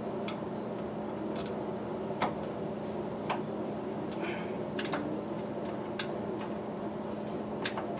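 Scattered light clicks and taps of hand tools and parts being handled while fitting cab parts, about six in all, over a steady background hum.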